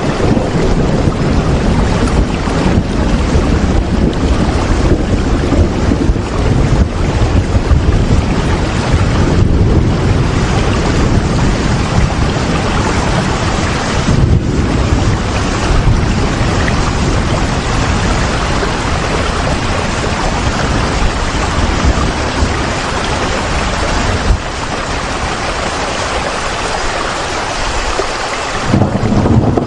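Steady heavy rain, an even hiss with a low rumble under it; the rumble drops away about three-quarters of the way through and comes back just before the end.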